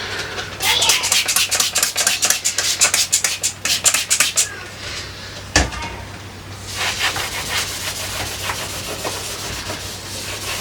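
Vigorous hand scrubbing on the side of a refrigerator, rubbing off stuck-on glue, in quick back-and-forth strokes. It pauses after about four seconds, a single knock sounds, then the scrubbing starts again.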